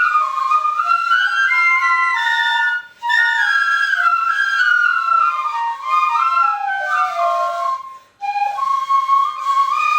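Shinobue, Japanese bamboo transverse flutes, played as an ensemble in a stepping melody. The playing breaks off briefly twice between phrases, about three seconds in and again about eight seconds in.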